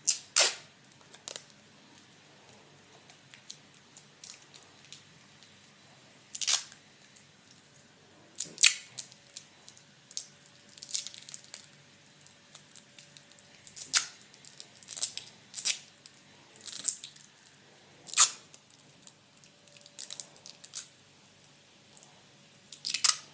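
Adhesive tape being pulled off the roll, torn and pressed around wooden skewers: short, sharp rasping crackles every second or two.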